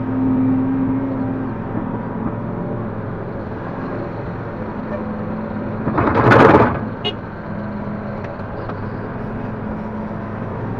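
Link-Belt 145X3E hydraulic excavator's diesel engine running steadily, with one short, loud rush of noise about six seconds in.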